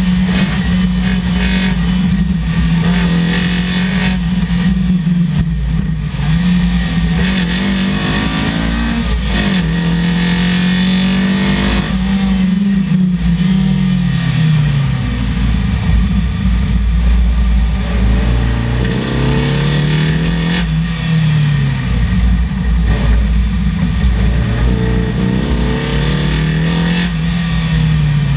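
Datsun 1200 rally car's Nissan SR20VE 2.0-litre four-cylinder engine, heard onboard at high revs. Its note climbs under acceleration and falls away several times as the driver lifts, brakes and changes down for corners.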